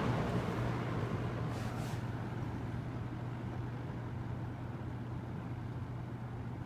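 Late-1970s Superlectric box fan just switched from high to low: the rush of air fades as the blades slow over the first couple of seconds, then it settles into a nice quiet low-speed run with a steady low motor hum.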